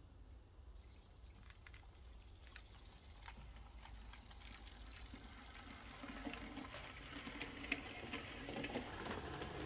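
Fleischmann BR 89 T3 model steam locomotive running on its track: the ringfield motor hums and the wheels click and rattle over the rails, growing steadily louder as it approaches.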